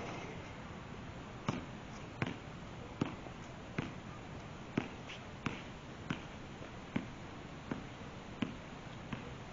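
A basketball being dribbled on a court: a steady bounce roughly every three-quarters of a second.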